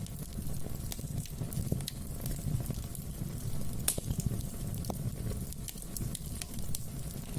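Wood fire burning in a fireplace: a steady low rumble of the flames with scattered crackles and pops, the sharpest pop about four seconds in.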